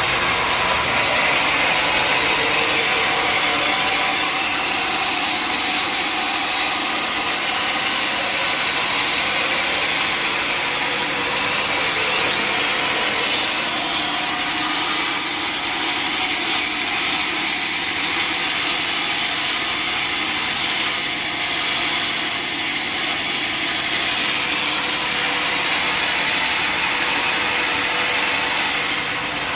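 Sawmill blade cutting steadily through a mahogany log, a continuous high hiss over the running machine.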